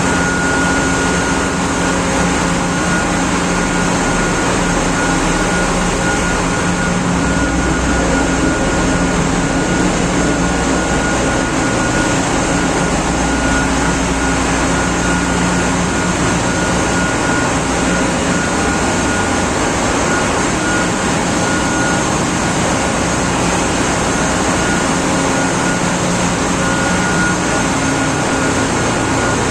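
Loud, steady machinery noise of a ship's engine room: a dense mechanical din with a low hum and a thin, steady whine above it.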